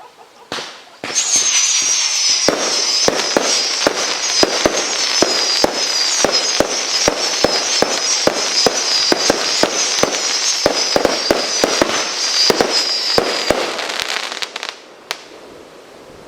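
Neon Boom firework cake firing: a shrill wavering whistle over a rapid stream of sharp bangs for about thirteen seconds, then it stops, with one last bang near the end.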